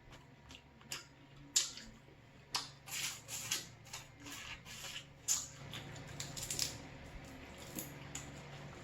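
Close-miked chewing of peeled shrimp in butter sauce: wet mouth smacks and squelchy clicks at an irregular pace.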